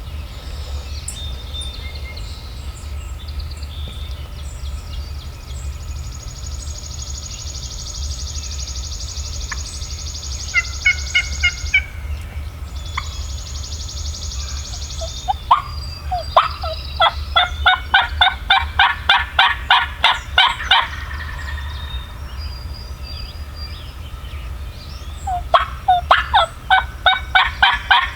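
Turkey yelping: two long runs of evenly spaced notes, about four a second, one near the middle and another near the end. Earlier, a small bird sings a high, buzzy trill.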